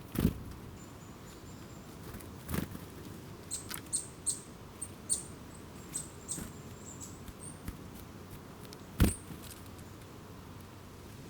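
Small birds giving short, very high, thin calls in a quick run through the middle. Three dull knocks come in between, the loudest about nine seconds in.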